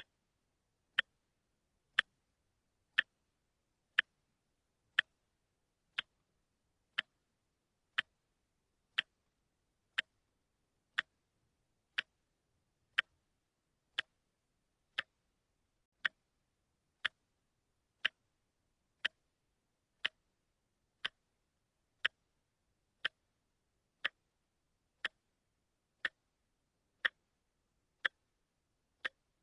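A watch ticking steadily once a second, each tick a short sharp click.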